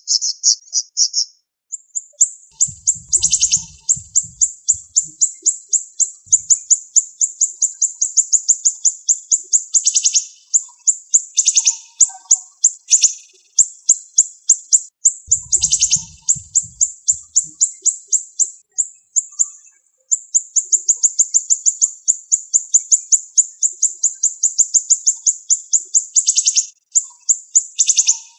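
Siri-siri songbird singing in fast, dense runs of sharp, high repeated notes, about six a second. A few louder, lower notes break in every few seconds, and there are brief pauses between runs.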